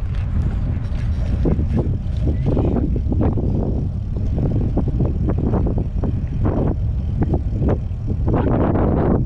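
Wind buffeting the microphone of a camera on a moving bicycle, a steady low rumble with irregular gusts, together with the ride's road and tyre noise.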